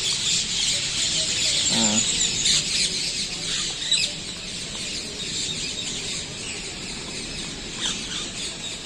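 Chorus of many birds chirping and calling together in trees, a dense overlapping chatter typical of early morning, a little fuller in the first few seconds.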